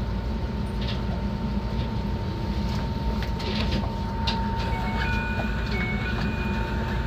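Enoshima Electric Railway (Enoden) train running into its terminus, with a steady low rumble and a thin steady whine. Wheels click sharply on the rails several times, and thin high squeals join in from about five seconds in.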